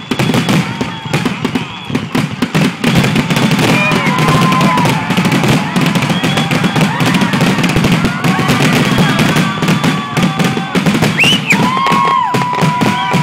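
Fireworks display in a dense barrage: many shells bursting in rapid, overlapping bangs with continuous crackling, and several high whistling tones gliding up and down through it.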